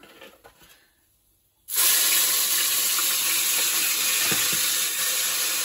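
Home-made masala paste hitting hot oil with whole spices in a pan, sizzling loudly and steadily; the sizzle starts suddenly about two seconds in, after a near-silent moment.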